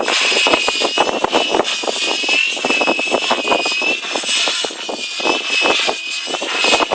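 GAUI X5 electric RC helicopter flying, its motor and drivetrain giving a steady high whine that wavers slightly in pitch, with strong wind buffeting the microphone in rapid irregular crackles.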